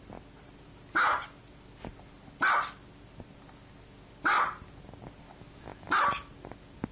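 A dog barking four times, single loud barks spaced evenly, a bark about every one and a half to two seconds.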